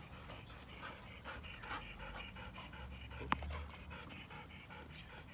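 A dog panting quickly and evenly, with one sharp click a little over three seconds in.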